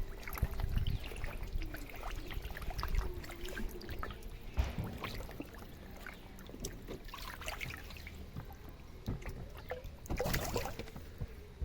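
Water in a fish tank splashing and sloshing in short, irregular bursts, with the biggest splashes about halfway through and near the end, over a low rumble.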